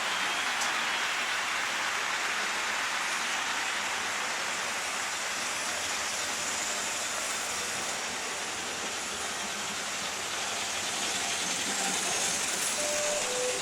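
Märklin model train running on its track: a steady rolling whirr and rattle.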